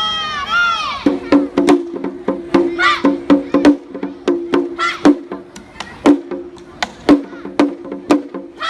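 Japanese lion-dance (shishimai) festival music: sharp wooden-sounding strokes in an uneven rhythm over a steady low ringing drum tone. High sliding notes open it, with a few more short ones later.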